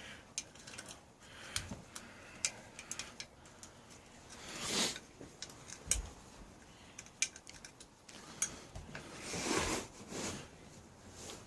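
Ratchet and socket working bolts loose, giving scattered light clicks and metal taps. Two short, louder noisy strokes come about five seconds in and near the end.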